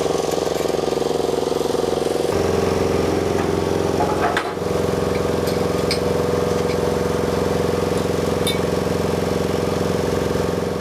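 An engine running steadily at idle, its low note changing about two seconds in.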